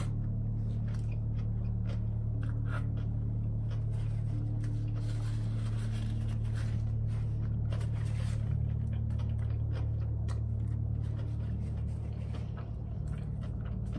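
A person biting and chewing a banh mi, with crunches and mouth clicks from the crusty bread, over a steady low hum.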